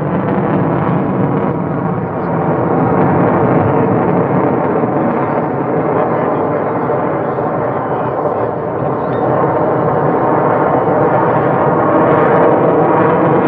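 Loud, continuous airplane engine noise at an air show, swelling in volume a couple of seconds in and again near the end.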